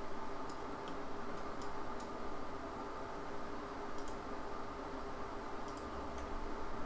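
Computer mouse clicking a handful of times at irregular intervals, sparse short clicks while selecting on screen, over a steady background hum and hiss.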